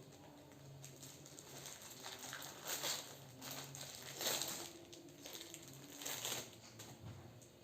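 Knife cutting soft tempe embuk into pieces: several short rustling, crunching strokes a second or so apart, over a faint steady low hum.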